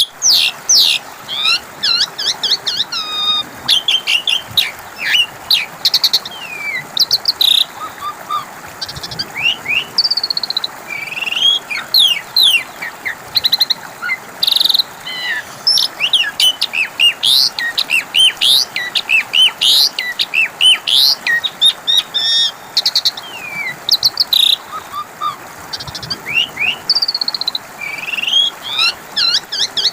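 Asian pied starling (jalak suren) singing: a rapid, continuous run of varied high whistles, glides and chattering notes with only brief pauses.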